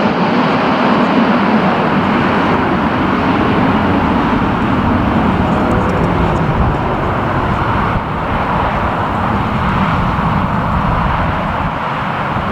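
Jet airliner's engines heard at an airport, a loud steady noise that eases slightly in the second half.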